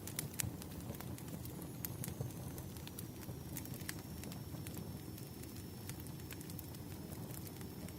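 Firewood burning, crackling with scattered sharp pops over a low steady rumble.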